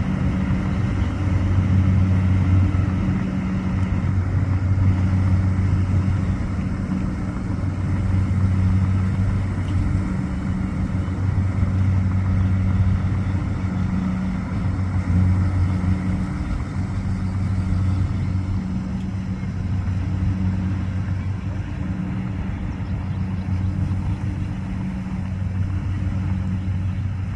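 Rice combine harvester running, a steady deep engine drone that swells and eases every couple of seconds.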